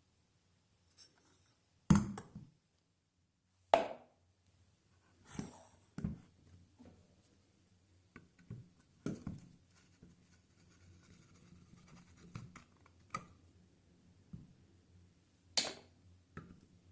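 Workshop handling noises: a string of irregular sharp knocks and clatters, the loudest about two and four seconds in, with light scraping between them.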